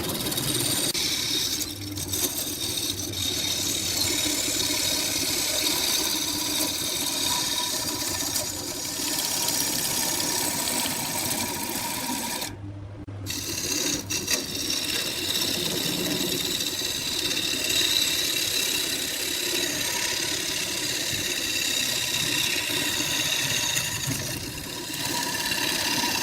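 A wood lathe running while a turning tool cuts the spinning wood: a steady machine hum with a cutting hiss. It breaks off briefly about halfway through.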